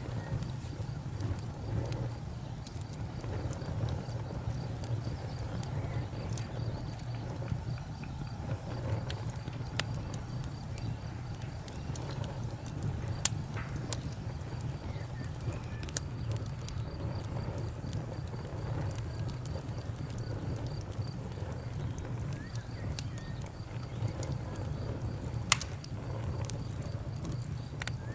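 Campfire burning: a steady low rumble with scattered sharp crackles and pops, a loud pop near the end.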